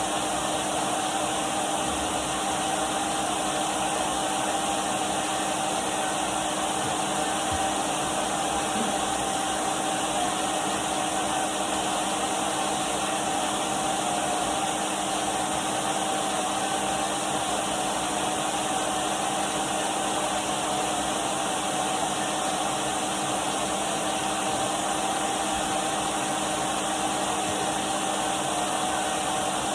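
Numatic Henry cylinder vacuum cleaner running steadily: an unbroken rush of air with a steady motor whine.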